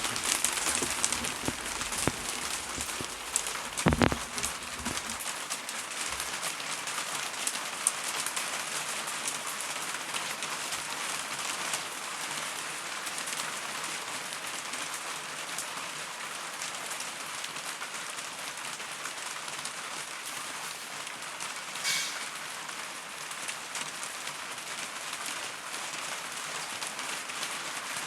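Heavy rain mixed with hailstones coming down on a roof: a dense, steady hiss peppered with sharp ticks of hail strikes. A louder knock stands out about four seconds in.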